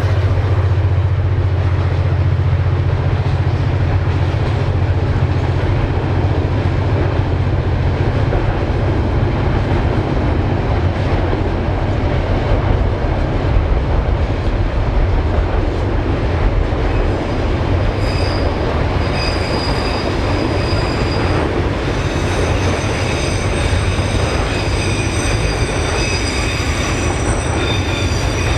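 KiwiRail diesel freight train running, with a steady low drone throughout. About two-thirds of the way in, high-pitched wheel squeal rises over it and keeps on.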